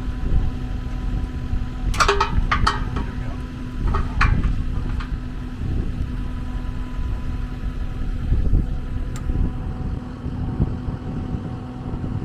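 An engine idling steadily with a low hum, with a few sharp metallic clicks and clanks about two seconds in, again around four to five seconds in, and once more faintly near nine seconds.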